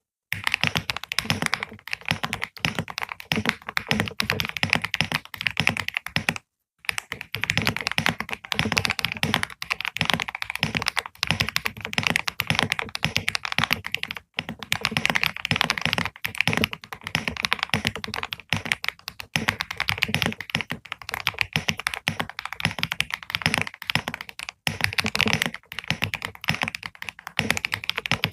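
Continuous fast typing on a computer keyboard: a dense, uneven run of key clicks and taps, stopping for a moment about six and a half seconds in before going on.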